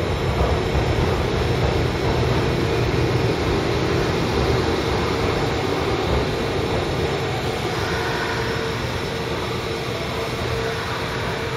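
Station platform ambience: the steady rumble and hum of an electric train standing at the platform, with a steady mid-pitched drone from its onboard equipment, slowly getting a little quieter.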